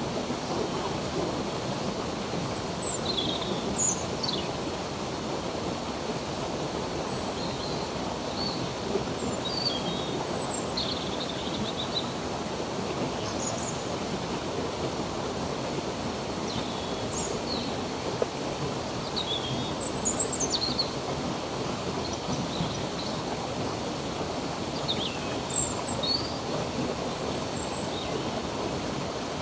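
Running stream water making a steady rushing sound, with small birds giving short, quick chirps scattered throughout.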